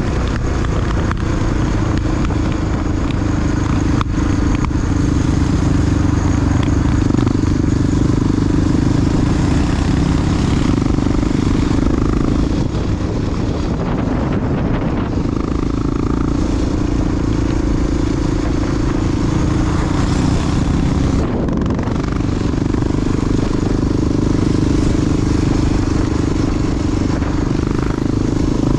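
A big single-cylinder four-stroke Honda XR dual-sport motorcycle engine running steadily under way. The revs ease off briefly around the middle and again about two-thirds through, then pick back up.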